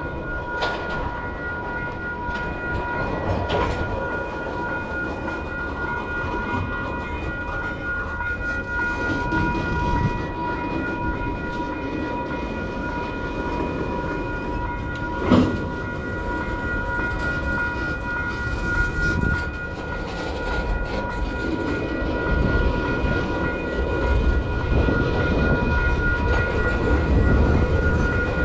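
Freight train cars rolling past with a steady rumble and clickety-clack of wheels over rail joints, over a set of steady high ringing tones. One sharp, loud clank about fifteen seconds in.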